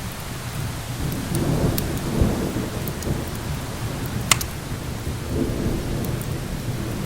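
Rolling thunder rumbling low over a steady hiss, swelling twice, with a few sharp crackling pops of a fireplace fire, the loudest about four seconds in.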